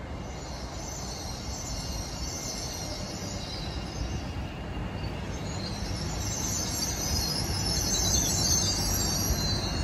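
Great Western Railway Class 800 train running in along the platform, a low rumble growing louder as it comes alongside. A high-pitched hiss sits over the rumble for most of the pass, dropping away briefly near the middle.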